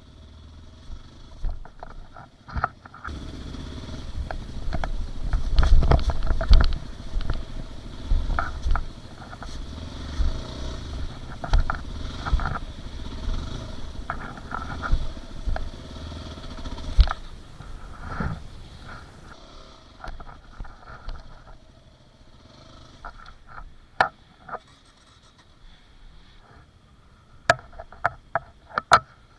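Dirt bike engine running at low trail speed over rough ground, with repeated knocks and clatter from the bike. It goes much quieter in the last third, leaving only a few sharp clicks.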